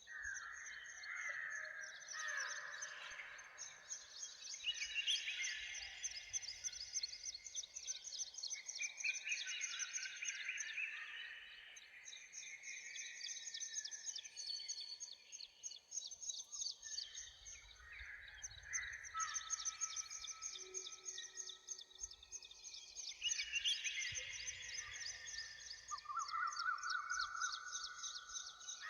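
Several songbirds singing at once in a morning chorus: overlapping whistled phrases and chirps, with a fast, high trill running through much of it. Now and then a low rumble of breeze comes in underneath.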